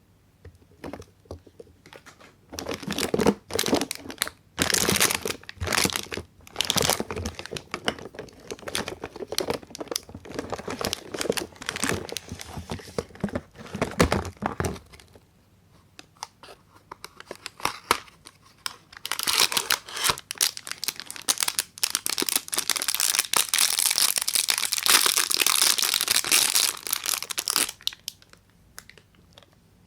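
Soap bar packaging being unwrapped by hand: the wrapper crinkles and tears. It starts a couple of seconds in as separate bursts, pauses about halfway, then runs as a long stretch of continuous crinkling.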